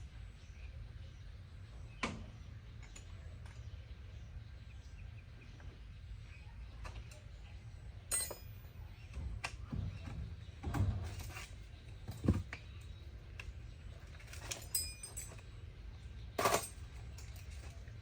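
Scattered clinks and knocks, a few sharp ones spread unevenly and the loudest near the end, over a steady low hum.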